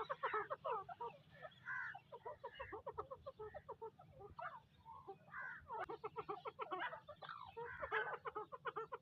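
White grey francolins (tetar) making soft, rapid clucking and chattering calls in irregular runs of short notes, over a steady low hum.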